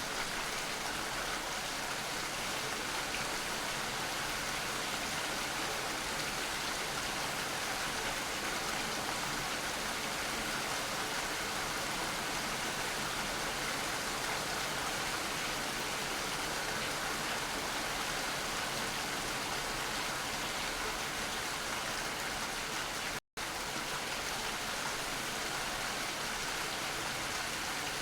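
Steady rain falling, an even, continuous hiss of drops. The sound cuts out for an instant about three-quarters of the way through, then carries on unchanged.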